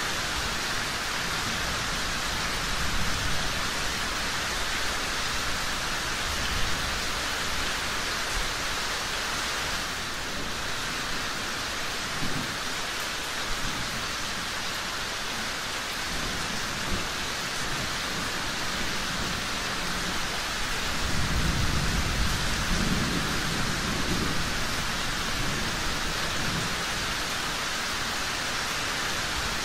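Steady rain falling, with low rolls of distant thunder; the longest and strongest roll comes about two-thirds of the way through. A few brief pops stand out over the rain.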